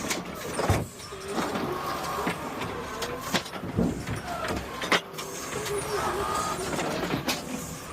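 Garbage truck working, with a run of sharp clanks and knocks over steady mechanical noise.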